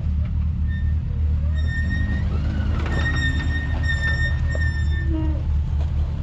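Side-by-side UTV engine running at low revs while crawling over rough trail, a steady low rumble. A high-pitched steady squeal joins it about a second and a half in and lasts about three and a half seconds.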